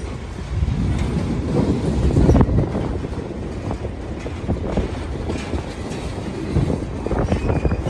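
Freight train of tank cars and covered hopper cars rolling past: steady wheel-on-rail rumble with scattered knocks from the wheels.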